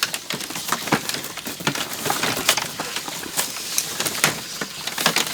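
Irregular sharp clicks and cracks, several a second, with no steady sound underneath.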